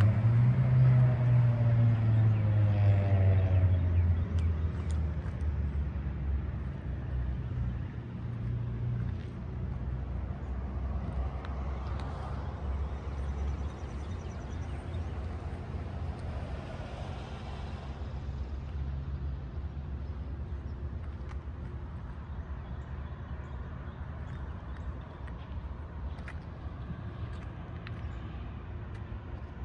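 Toyota FJ Cruiser's 4.0-litre V6 engine running. It is loudest at first, with a rising note in the first few seconds, then settles to a steady low note that slowly grows quieter.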